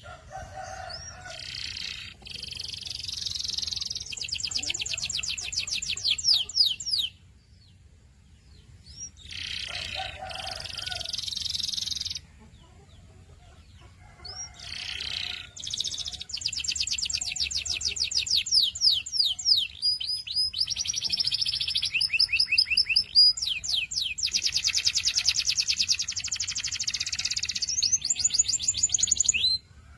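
Domestic canary singing: phrases of fast, evenly repeated high notes (rolls and trills), broken by two short pauses in the first half, then one long unbroken run of trills that stops near the end.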